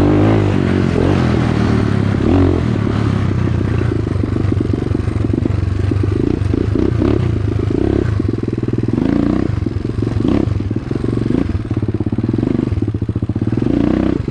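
Dirt bike engine running while being ridden, the revs rising and falling near the start, then holding at a steady, fast beat.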